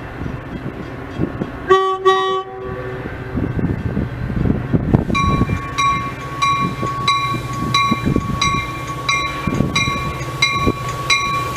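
Metra commuter train approaching with its cab car leading, the train rumbling: a short horn blast about two seconds in, then from about halfway a bell ringing about twice a second.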